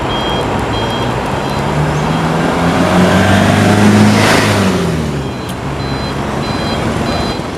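Motor vehicle engine in traffic, rising in pitch to a loud peak about four seconds in and then falling away. Short repeated high beeps sound near the start and again in the second half.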